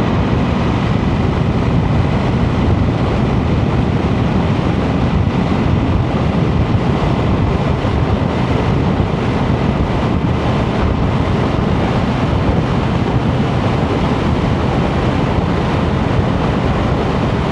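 Steady rush of wind and road noise from a motorcycle riding at speed, heavy in the low end, with wind buffeting the microphone.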